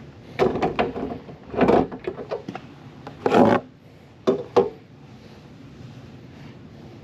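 A run of irregular rubbing, scraping and knocking sounds for about the first five seconds, then only a low steady background.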